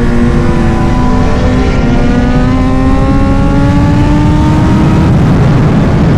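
Kawasaki Z900's inline-four engine pulling through a gear at speed, its note rising steadily for about five seconds, then sinking under a rush of wind and road noise near the end.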